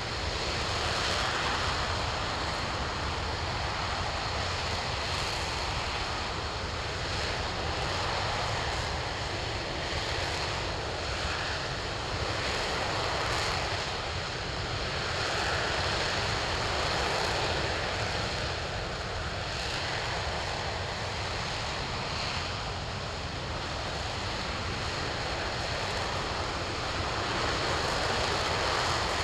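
RS-25 liquid-hydrogen/liquid-oxygen rocket engine running continuously during a hot-fire test on a test stand. It makes a steady rushing noise that rises and falls slowly in loudness.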